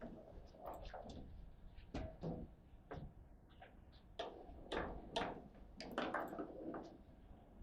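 Irregular knocks and clicks from a table football (foosball) table being handled, the rods and rubber-gripped handles knocking and rattling, with sharper clacks strongest about four to six seconds in.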